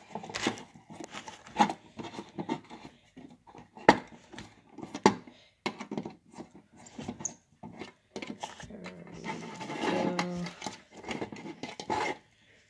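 Scattered clicks and knocks of a screwdriver and a plastic strobe housing being handled while screws are taken out, with one sharp knock about four seconds in.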